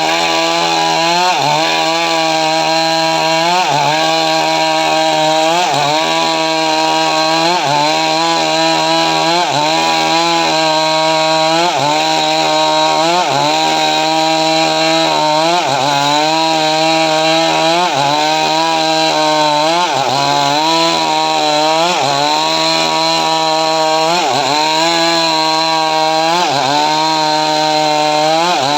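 Stihl MS 382 two-stroke chainsaw running at high revs as it rips through dry mahogany, its pitch dipping briefly and recovering about every one and a half seconds as the chain bites and the engine loads.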